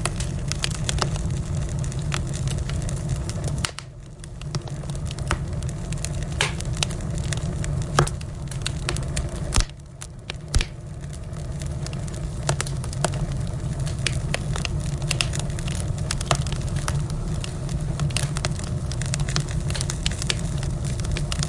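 Wood fire crackling: frequent sharp pops and snaps over a steady low rumble of burning. The low rumble drops away briefly about four seconds in and again near ten seconds, around a few louder pops.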